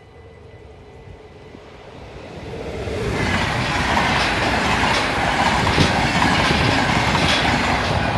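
NS VIRM double-deck electric passenger train passing close by at a level crossing. Its rush swells over the first three seconds, then stays loud, with the wheels clicking regularly over rail joints, and begins to fade near the end as the last coach goes by.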